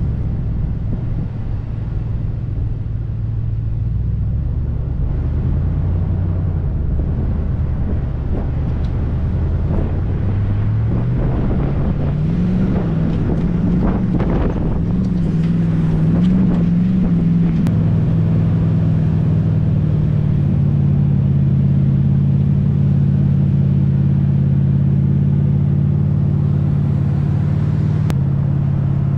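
Toyota LandCruiser 100 Series engine running steadily while the vehicle drives. Its pitch rises from about ten seconds in, wavers briefly, then holds steady at the higher speed.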